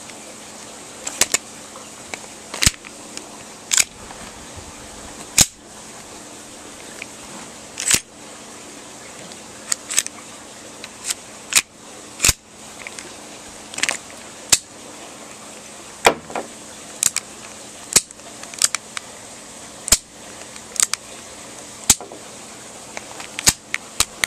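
KJW M1911 gas blowback airsoft pistol firing a string of about twenty sharp shots, roughly one a second and sometimes two in quick succession, each with the snap of the slide cycling.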